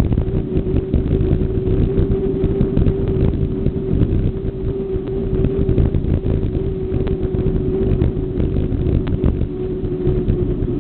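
Riding noise on a bike ride: wind buffeting the microphone and road rumble, with many small rattles and clicks and a steady mid-pitched hum that holds one pitch throughout.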